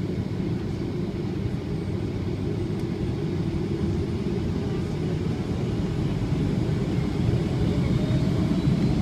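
Low, steady rumble inside the cabin of a Boeing 757-200 with Rolls-Royce RB211-535E4B engines, heard from a window seat. The rumble grows slowly louder, and near the end a faint engine whine starts to come through.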